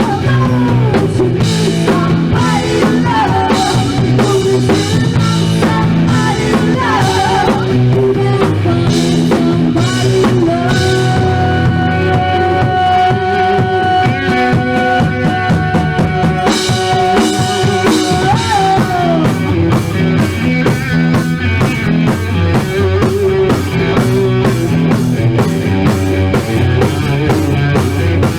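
Live rock band playing in a rehearsal room: drum kit, bass and electric guitar at full volume, with a single high note held for about eight seconds mid-way.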